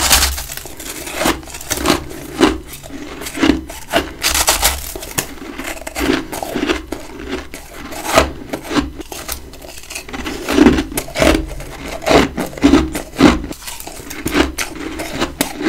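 Big chunks of freezer frost being bitten and chewed close to the microphone: crisp, irregular crunching, several crunches a second, with dull thuds of the jaw underneath.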